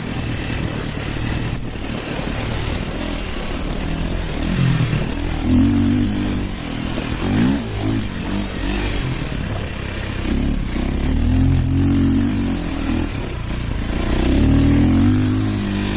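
Dirt bike engines revving hard, their pitch rising and falling again and again with throttle and gear changes, with overlapping engine notes at times.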